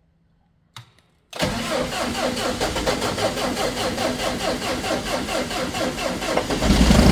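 A 12-volt tractor's starter motor cranking the engine off a jump starter pack because the tractor's own battery is flat, with an even, rapid pulse. A short click comes just before the cranking begins. About six and a half seconds in, the engine catches and runs, louder and lower.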